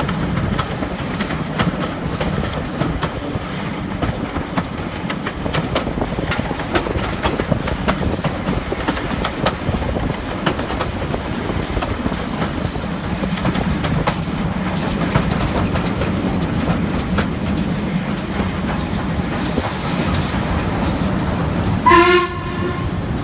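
Steam-hauled passenger train running, heard from a carriage window: a steady rumble with wheels clicking over rail joints. A short blast on the locomotive's steam whistle comes near the end.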